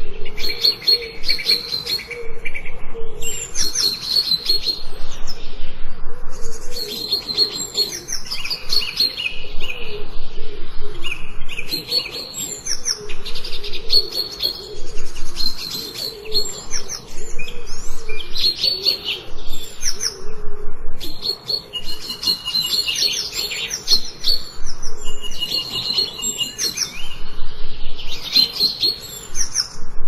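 Several songbirds chirping and singing, with short high phrases that overlap and repeat every second or two.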